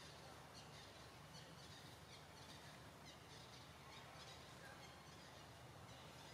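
Near silence: faint forest ambience with small birds chirping now and then in the background.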